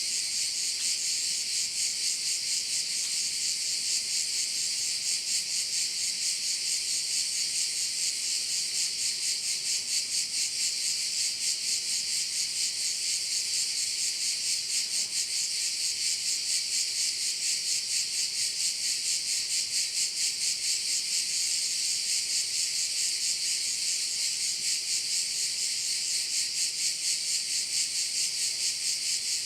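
Chorus of cicadas buzzing without a break: a dense, high-pitched rasp that pulses quickly and evenly.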